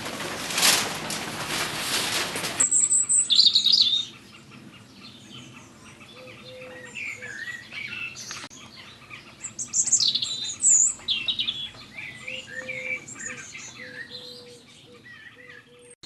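Songbirds chirping and singing, with many short high calls and trills and a few short whistled notes. A loud rushing noise fills the first couple of seconds and cuts off suddenly.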